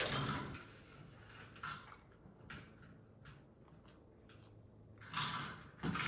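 Close-up eating of large prawns: chewing and shell crunching, with scattered small clicks and two louder bursts, one at the start and one about five seconds in.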